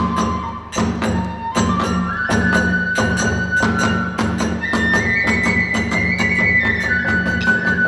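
Hiroshima kagura accompaniment: a bamboo flute plays a long held melody that steps up twice and comes back down near the end. Under it, drums and hand cymbals strike fast, even beats, about four a second.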